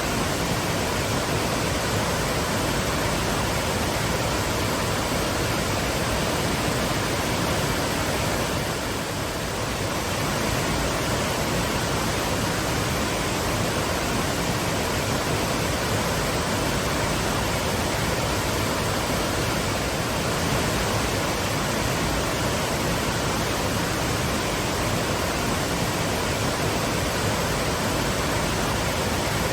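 Waterfall: a steady, even rush of falling water, with a brief slight dip about nine seconds in.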